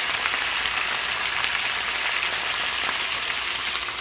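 Chopped bacon and chorizo frying in a pan: a steady, dense sizzle full of fine crackling, easing off slightly near the end.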